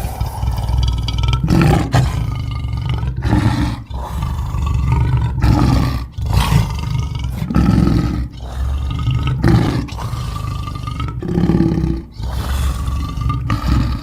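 Grinch character sound effects: a string of rough, roar-like vocal growls, about ten short ones edited back to back with brief sharp breaks between them.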